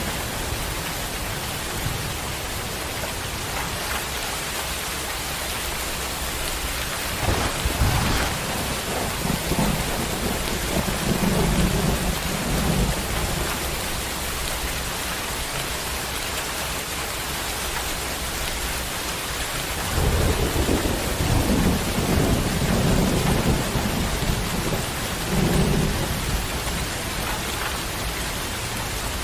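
Heavy rain pouring steadily, with low rumbles of thunder swelling up several times: once about a quarter of the way in, and again for several seconds past the two-thirds mark.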